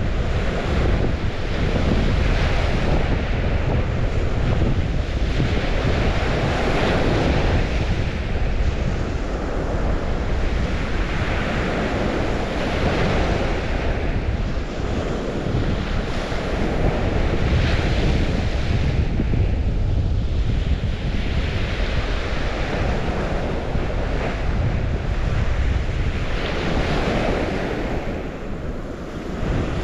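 River water rushing, swelling and easing every few seconds, with wind rumbling on the microphone.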